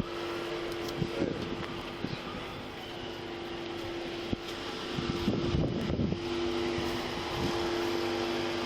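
A steady mechanical hum, like an idling engine or machine, runs throughout. About five seconds in there is a brief rustle and knock against the body-worn microphone.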